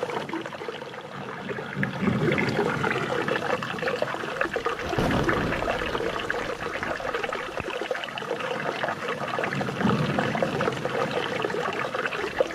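Flowing water trickling and splashing in a steady, continuous stream, swelling slightly now and then.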